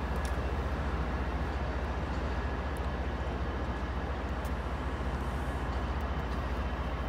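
Steady low, throbbing rumble of trains running at a station platform, with a faint steady whine above it and a few faint ticks.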